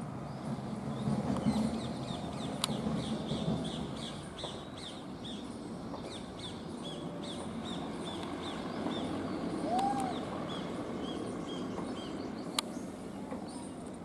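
A small bird chirping over and over in short, high chirps, about two or three a second, over a low, steady outdoor background noise. A couple of sharp clicks stand out, one a few seconds in and one near the end.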